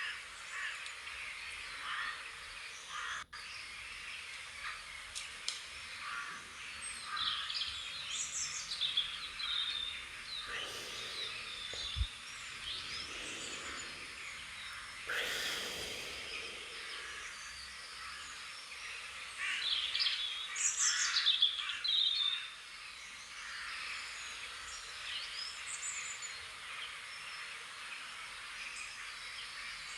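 Several small birds chirping and trilling, their short calls overlapping steadily and busiest around twenty seconds in. A brief rushing noise rises and fades about fifteen seconds in.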